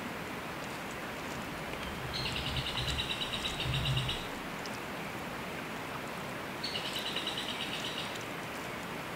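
A bird's rapid, evenly pulsed trill on one high pitch, given twice, about two seconds each, over a steady hiss. A few low thuds come during the first trill.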